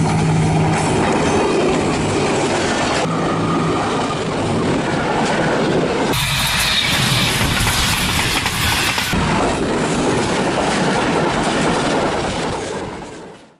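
Diesel-hauled passenger trains passing close by at speed: locomotive engine running and wheels clattering over the rails. The sound changes abruptly every few seconds and fades out near the end.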